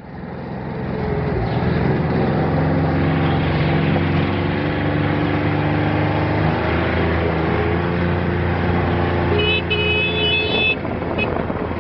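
Mule utility vehicle's engine pulling uphill, building from a low point at the start and rising in pitch in steps as it picks up speed. A brief high-pitched tone sounds about ten seconds in.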